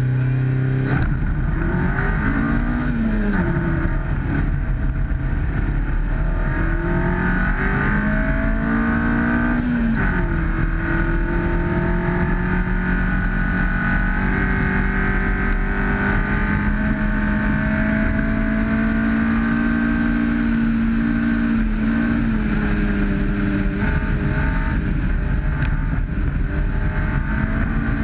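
1991 Honda CRX rally car's twin-cam ZC four-cylinder engine launching from a held-revs stage start about a second in and accelerating hard, revs climbing and dropping at each upshift over the first ten seconds, then running at a fairly steady pitch at speed, over the rumble of tyres on gravel.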